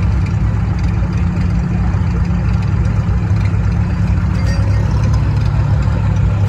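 A tractor engine idling steadily at a constant speed.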